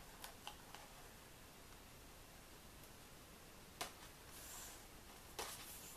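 Near silence, broken by a few faint, sharp clicks and taps as paper and a peel-off glitter border sticker are handled and pressed on.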